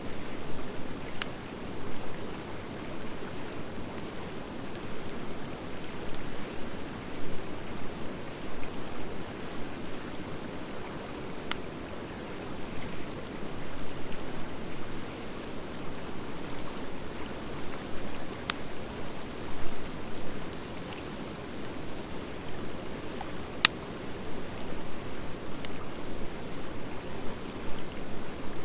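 Wood fire of driftwood and dry hardwood burning: a steady hiss and rustle of flames with a few sharp pops scattered through, the loudest about three-quarters of the way in.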